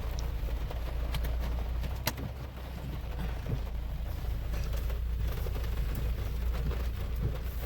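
Car cabin noise while driving: a steady low engine and road rumble with a hiss over it, and a sharp click about two seconds in.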